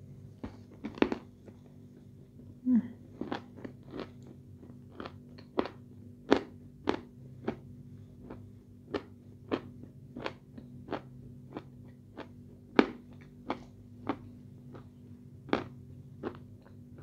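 Close-miked chewing of a mouthful of edible red clay paste. Sharp, crunchy mouth clicks come about one and a half times a second.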